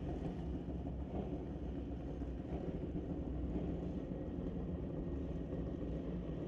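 Steady low engine rumble from drag-racing motorcycles running at low revs.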